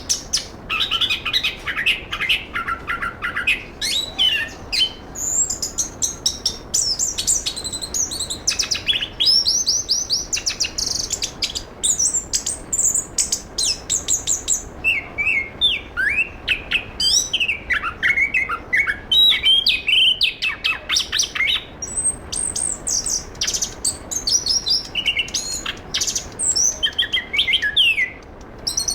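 Chestnut-capped thrush (anis kembang) singing a long, varied song of rapid chirps, trills and sliding whistled notes, run together with hardly a pause.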